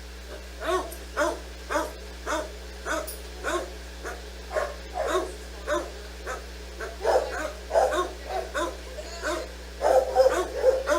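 A dog barking over and over, about two barks a second, the barks coming closer together near the end.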